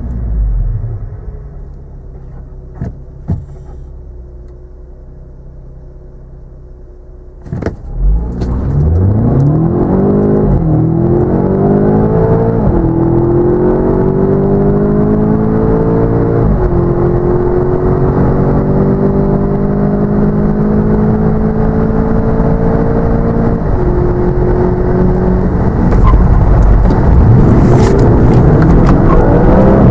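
Audi A1 1.4 TFSI's twin-charged four-cylinder petrol engine, running quietly at first, then pulled hard under full-throttle acceleration from about eight seconds in. Its pitch climbs through the gears, dropping sharply at each of four quick upshifts of the seven-speed S tronic gearbox.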